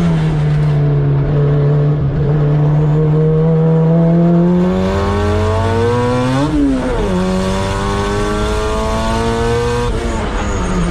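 A car engine at high revs under load, pitch climbing slowly as it pulls through a gear. About six and a half seconds in it flares up and drops sharply, as at a gear change or a lift off the throttle, then climbs again.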